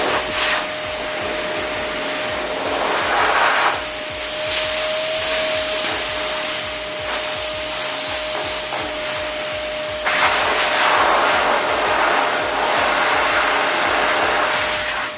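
Prestige Typhoon 06 wet-and-dry vacuum cleaner running as a blower: a steady motor whine over rushing air. The air rush gets suddenly louder about ten seconds in.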